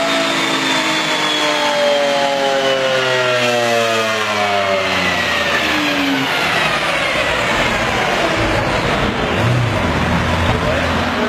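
Lamborghini Aventador's V12 coasting down on a chassis dyno after a pull. The engine and rollers slow together, the pitch falling steadily for about seven seconds before settling to a steady idle near the end.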